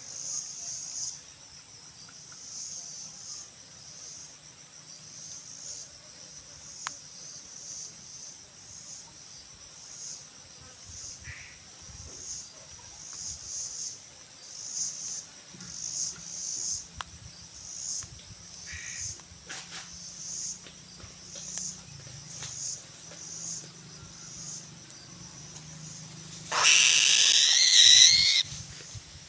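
Crickets chirping in a steady, rhythmic high-pitched pulse, with a single loud animal call of about two seconds near the end.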